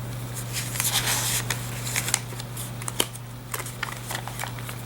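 Paper being handled: journal pages and tags rustling and crinkling, with a string of short sharp ticks and a longer rustle about a second in.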